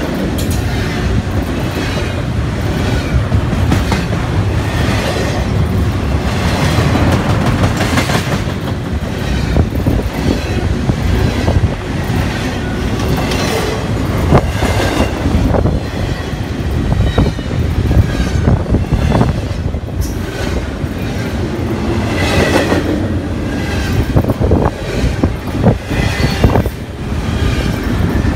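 Double-stack intermodal freight train's container-laden well cars rolling past close by: a steady rumble with irregular clacking of wheels over the rail joints.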